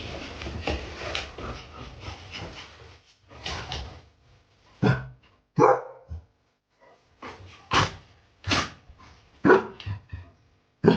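Rustling for the first few seconds, then a dog barking in a string of separate barks, about one a second.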